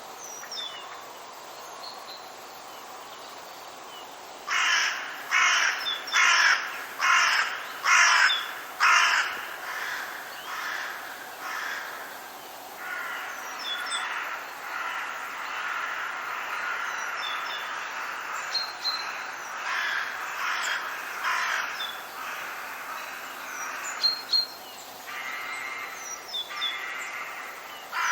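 Forest birds calling: a run of about seven loud, harsh calls a little over half a second apart, then softer continuous chattering with thin high chirps from smaller birds, and a fast trill near the end.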